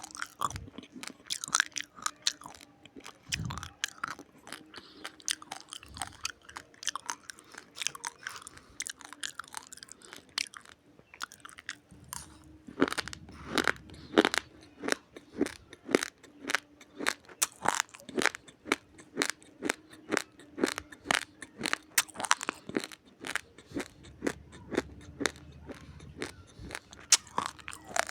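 Raw uncooked rice grains being crunched and chewed in the mouth. The crunching is loose and irregular at first, then settles into a steady chewing rhythm of about two to three sharp crunches a second from about halfway through.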